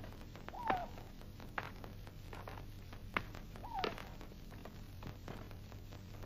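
A bird calls twice, about three seconds apart, each a short falling note, over a faint steady hum and hiss with a few soft clicks.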